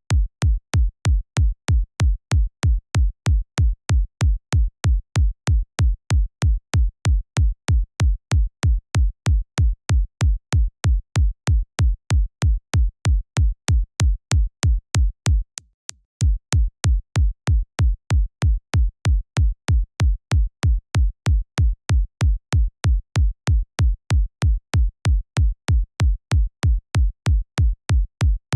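Synthesized electronic kick drum, designed in the Kick 2 plugin, looping in a steady four-on-the-floor pattern at about two kicks a second: a deep low thump with a sharp click on each hit. The loop stops briefly about halfway through, then resumes.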